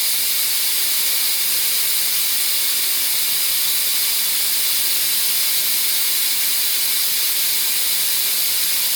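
Wolfbox MF200 electric air duster blowing a steady, loud hiss of air into a small two-cylinder air engine to drive it, at what is probably only about 1.5 psi.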